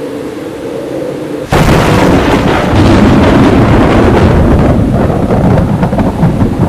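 Heavy rain, then about a second and a half in a sudden loud thunder crack that rolls on as a long crackling rumble.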